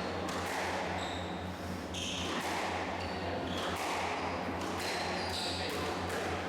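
Squash rally: the ball cracks off rackets and the court walls again and again, with short high squeaks of shoes on the court floor and a steady low hum underneath.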